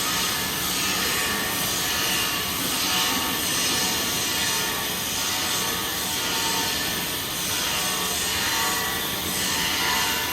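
Electric arc welding the capping pass on a 1-inch pipe socket joint: the arc keeps up a steady crackling hiss that swells and eases slightly about once a second.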